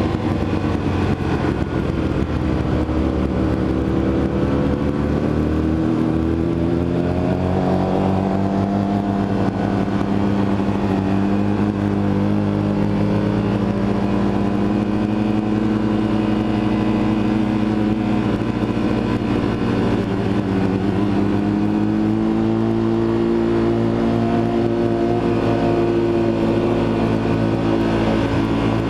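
Motorcycle engine running under way, its pitch rising and falling slowly as the revs change.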